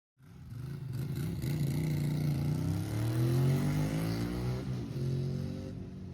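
Ducati motorcycle engine running as the bike pulls away, its pitch rising steadily through the middle of the clip before easing off near the end.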